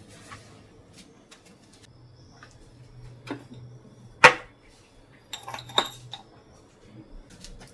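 Dishes and utensils being handled: scattered light clicks and knocks, one loud sharp clink a little past halfway, then a short run of clinks.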